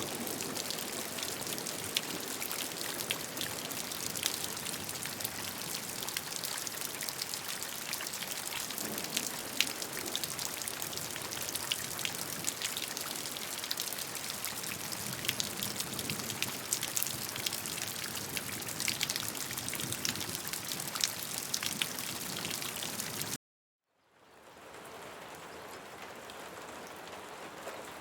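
Steady rain falling, with many distinct drops striking a surface. Near the end it cuts out abruptly for about half a second and fades back in softer.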